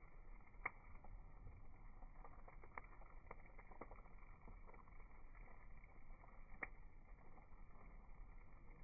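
Firewood burning in a small grill, crackling faintly with scattered light ticks and two sharper pops, one about a second in and one near the end.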